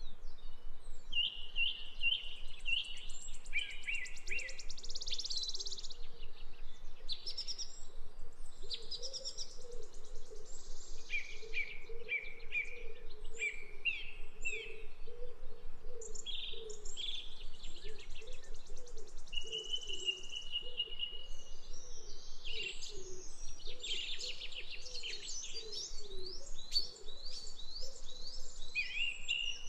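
Songbirds singing: repeated chirping notes and quick trills in phrase after phrase, with brief pauses between.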